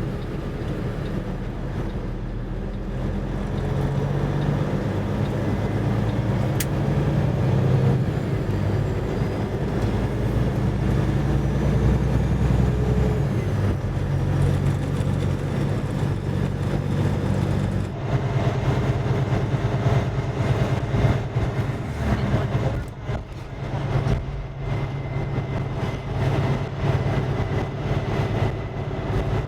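Semi truck's diesel engine and road noise while driving, a steady low drone; the sound shifts about 18 seconds in.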